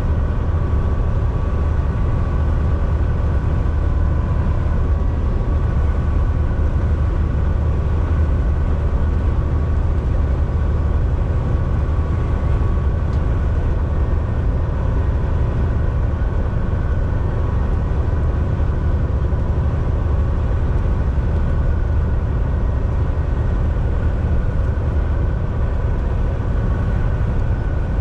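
Volvo VNL 760 semi truck driving at a steady speed, heard from inside the cab: a continuous deep engine and road rumble with a faint steady whine above it.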